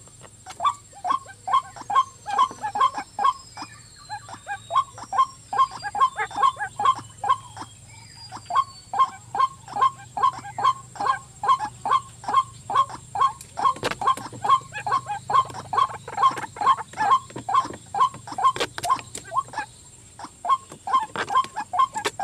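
White-breasted waterhen calling: a long run of repeated croaking notes, about three a second, with brief pauses about four seconds and twenty seconds in.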